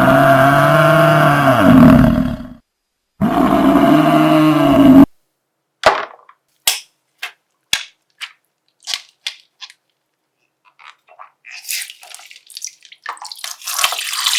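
A deep buffalo bellow sound effect, played twice, each call lasting about two seconds. It is followed by a run of about eight sharp pops, then crackling and squelching that build up loudly near the end.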